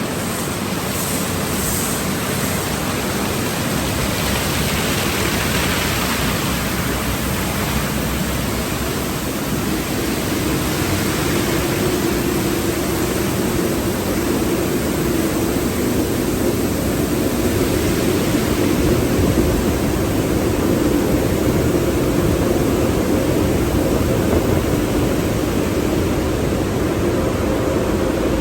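Automatic tunnel car wash equipment running: a steady rush of water spray and machinery noise, with a steady hum coming in about a third of the way through and the whole growing slightly louder toward the end.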